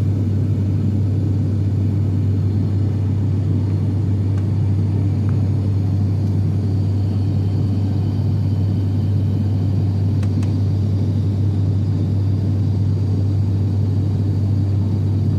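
Cabin drone of an ATR 72-600 turboprop in cruise: a steady low hum from its six-bladed propellers over a constant rumble of engine and airflow noise.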